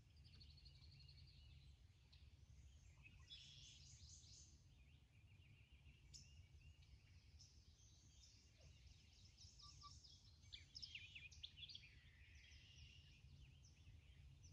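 Near silence with faint songbirds chirping and trilling, many short calls, over a low steady background rumble.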